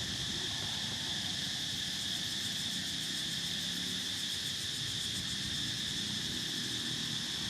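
Steady insect chorus, a continuous high-pitched drone that holds even throughout, over a faint low rumble.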